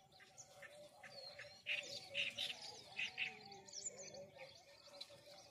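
Birds chirping, with a cluster of louder, sharp chirps about two to three seconds in.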